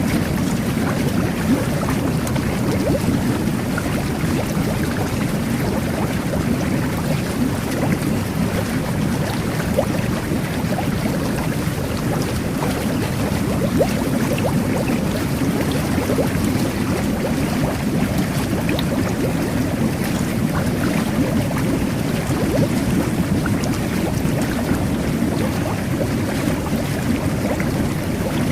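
Jet bath running: water jets churning and bubbling in a filled tub, a steady low rush with small bubble pops throughout.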